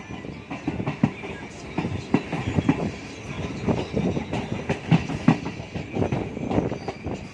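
MEMU electric train running along the track, its wheels clattering with irregular knocks over rail joints above a steady rumble.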